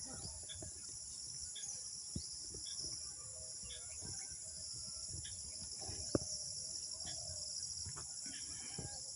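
Insects chirring steadily and high-pitched in the wet grass, with a few short bird chirps over them. Under it a low rumble, and two sharp knocks, about two and six seconds in, the second the loudest sound.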